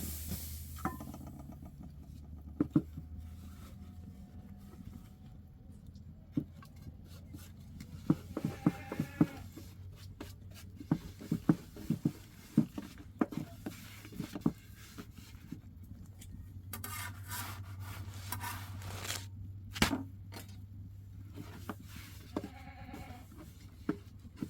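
Scattered sharp knocks and taps, thickest in the middle, with a few short bleats from goats.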